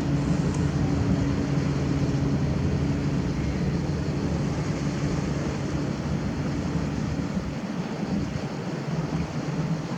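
Aircraft engines running, a steady roar with a low droning hum that slowly eases off.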